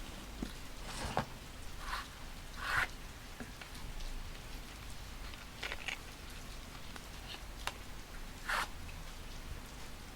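Steady rain sound with short crinkly rustles of paper and stickers being handled, about five of them, the loudest near 3 seconds in and near the end.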